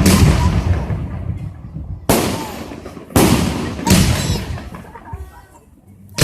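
Fireworks exploding: three sharp bangs about a second apart, each trailing off slowly.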